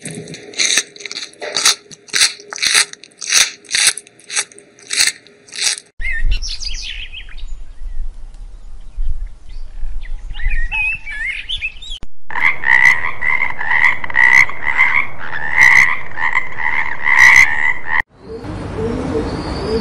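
A run of separate animal sounds. First come frog croaks repeating about twice a second. Quieter scattered calls follow, then a loud, fast pulsing call, and near the end pigeons cooing.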